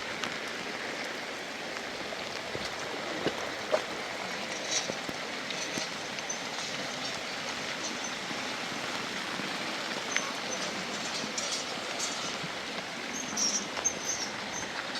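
Steady heavy rain, an even rushing hiss, with a few scattered sharp drips and small knocks and a short cluster of them near the end.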